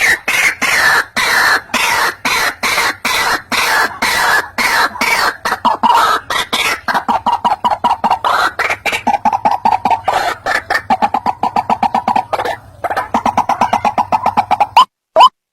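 White-breasted waterhen (ruak-ruak) calls played from a bird-trapping lure recording: a fast, unbroken run of harsh repeated notes, several a second. Near the end it changes to separate rising notes, about two a second, with short gaps between.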